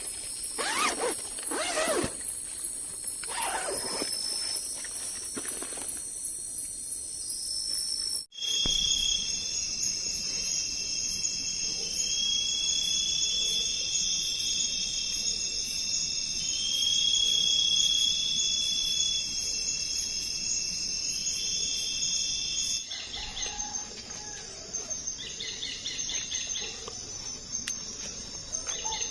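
Night-time forest chorus of insects: steady high-pitched trilling and buzzing, joined by other animal calls. The chorus changes abruptly about eight seconds in and again near the end, to a lower pulsing trill.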